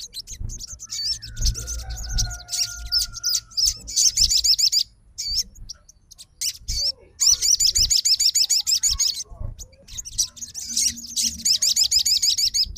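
Sogon bird singing in rapid, wavering high trills in three long phrases with short breaks between them, the chattering song keepers use to provoke a fighter sogon. A lower whistled note slides slightly downward early on.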